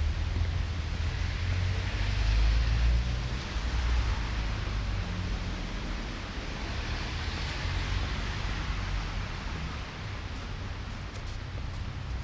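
City street ambience in a snowstorm: a steady low rumble with a hiss that swells twice, about two seconds in and again around seven seconds.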